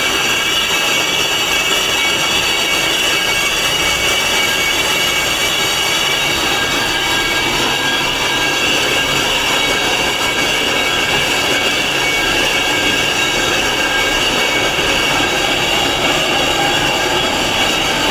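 Power tool grinding stone: a steady, loud, high-pitched whine with a gritty hiss, held without a break.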